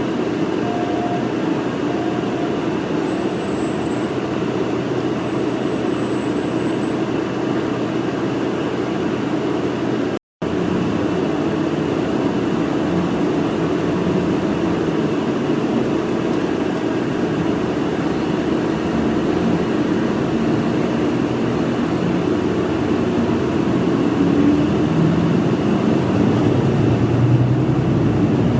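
Interior noise of a city bus under way: the diesel engine and road noise run steadily, with the low rumble growing a little stronger near the end. About ten seconds in, the sound cuts out for a split second.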